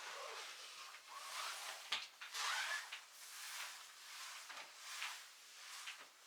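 Repeated rustling and rubbing with a few light knocks, like things being handled and moved about.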